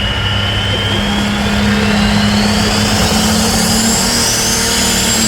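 Pro stock pulling tractor's turbocharged diesel engine at full throttle during a pull, under load, with a turbo whine that climbs steadily in pitch.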